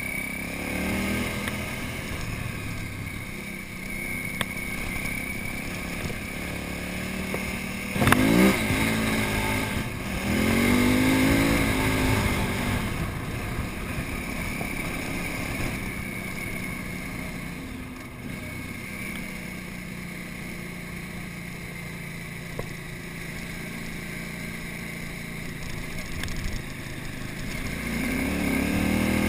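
KTM 950 Super Enduro's 950cc V-twin engine running on a dirt road, revving up with rising pitch about 8 seconds in and again around 10 seconds, settling, then pulling up again near the end. A sharp thump comes about 8 seconds in, the loudest moment.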